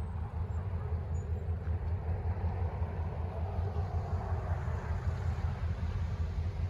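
Steady, slightly pulsing low rumble of EMD SW1500 diesel switcher locomotives running, with a wider rushing noise swelling up and fading away about midway.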